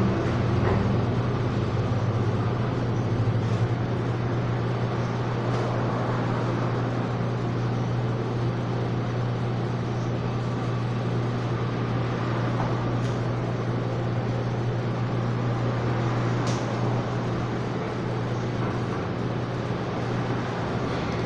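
Steady low mechanical hum under an even rushing noise, with a few faint clicks.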